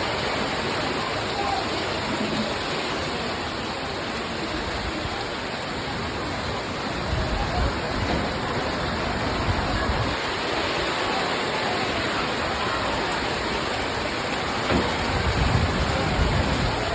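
Heavy rain falling in a steady hiss, with low rumbles swelling about seven seconds in and again near the end.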